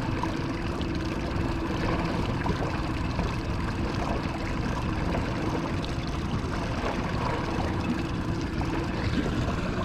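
Small fishing boat's motor running steadily at trolling speed, a constant hum with one held tone, over wind and water noise.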